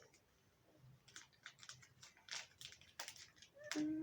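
Plastic wrapper of a Nutella B-ready bar crinkling in small irregular clicks as it is worked open by hand.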